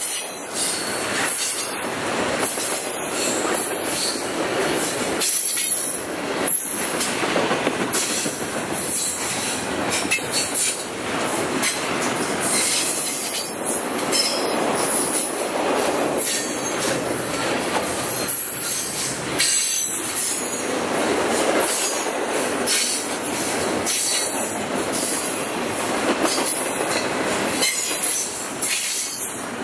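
Long freight train passing at speed close by: a steady rush and rumble of steel wheels on rail, with repeated clicks as wheels cross rail joints and brief high-pitched wheel squeal.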